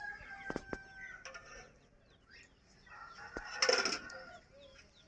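Bird calls: a held, even-pitched call in the first second, a few sharp clicks, then a louder harsh squawk about three and a half seconds in.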